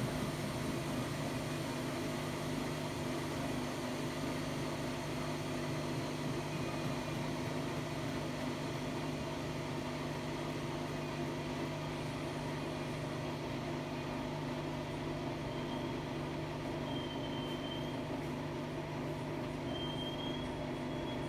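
Hotpoint-Ariston AQD972F washer-dryer with a brushless inverter motor, running with a steady mechanical hum. A faint high whistle comes and goes near the end.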